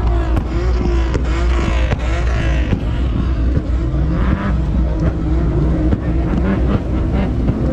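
Car engines running at a car meet: a loud, steady, deep rumble.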